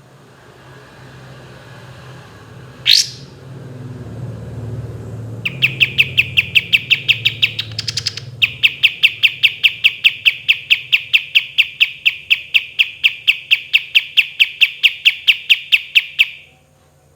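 Kapas tembak songbird calling: one sharp whistled note about three seconds in, then a long, fast trill of evenly repeated notes, about five a second, lasting roughly eleven seconds with a brief break near the start of it.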